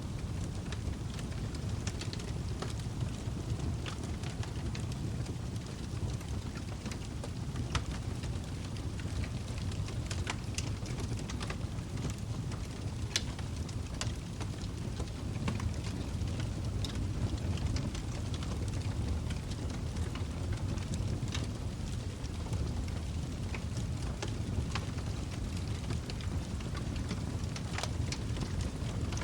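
Log fire burning with irregular sharp crackles and pops over a steady low rumble of flame.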